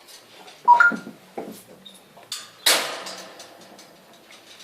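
African grey parrot making short clicks and a brief whistled note, then one loud harsh rasping squawk about two and a half seconds in.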